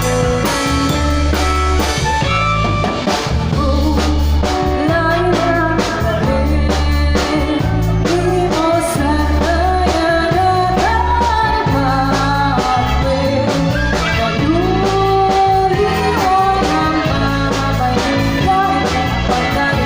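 A band playing amplified through a mobile PA sound system: steady drum kit beat, heavy bass and guitar, with a voice singing from about eight seconds in.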